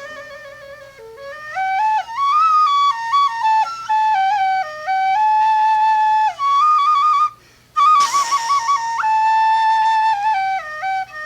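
Solo flute playing a melody of stepping notes and quick trills, with a short break a little past halfway and then a sharp breathy attack on the next phrase.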